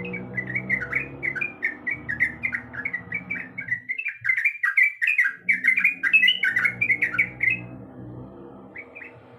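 Sooty-headed bulbul (trucuk) singing a fast, chattering run of bright, bubbling notes that stops about three-quarters of the way through, followed by a short pair of notes near the end. A low steady hum runs underneath and drops out briefly in the middle.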